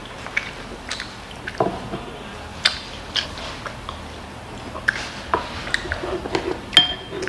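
Close-up chewing and lip-smacking of a mouthful of kimchi fried rice, with scattered short wet clicks. A wooden spoon taps in a glass soup bowl, with one sharp click that rings briefly near the end.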